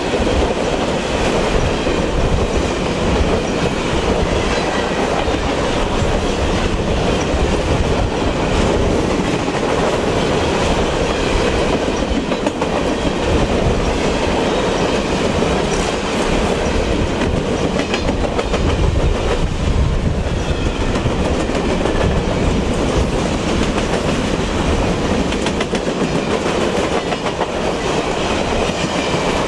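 Freight train of covered hopper cars rolling past close by: a steady noise of steel wheels on rail, with wheels clicking over rail joints.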